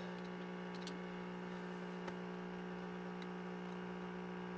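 A steady low hum with a stack of even overtones, and two faint clicks.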